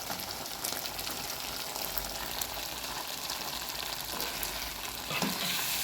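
Cow liver cooking in a pan, sizzling with a steady hiss and fine crackles.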